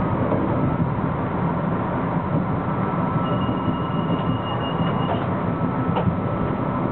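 Metro-North M3 electric multiple-unit train running steadily at speed, with the continuous rumble of wheels on track heard from the head car's cab. A thin high whine comes in for about two seconds midway, and a single click sounds near the end.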